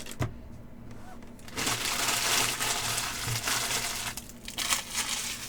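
Trading-card pack wrapper crinkling as it is torn open and handled: a dense stretch of crinkling from about a second and a half in to about four seconds, then a few short rustles.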